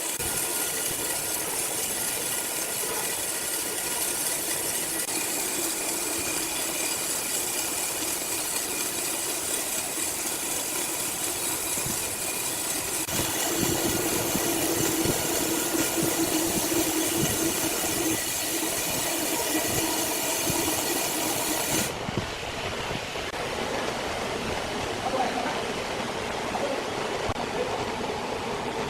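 Sawmill machinery running steadily with a constant whine. It grows louder about halfway through, and the sound changes abruptly near the end.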